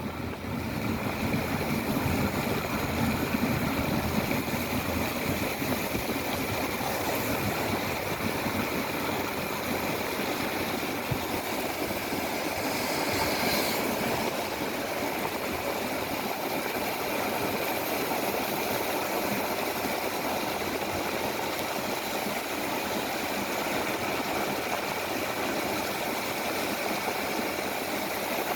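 Engines of railroad maintenance-of-way machines idling steadily under a constant rushing noise.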